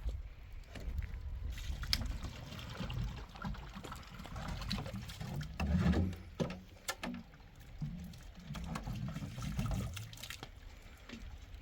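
Water trickling and splashing, with scattered knocks and an uneven low rumble.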